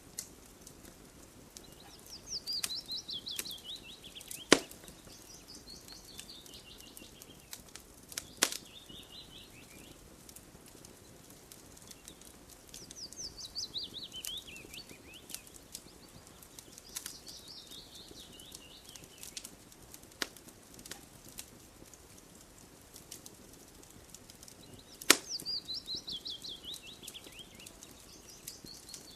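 Campfire crackling, with faint scattered ticks and three loud sharp pops of burning wood. A songbird sings several times, each phrase a quick run of notes falling in pitch.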